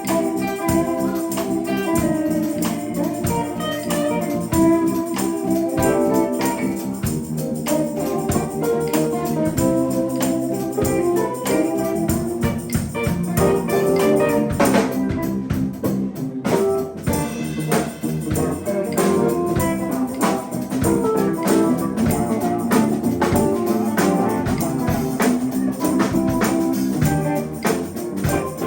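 Live band playing an instrumental passage with a steady beat and held keyboard-like chords.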